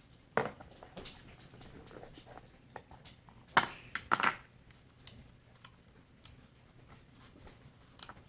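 Objects being handled and set down: a few sharp knocks and rustles, loudest about three and a half and four seconds in.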